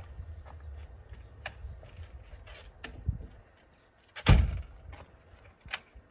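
Low rumbling with scattered clicks, then a single loud thump about four seconds in.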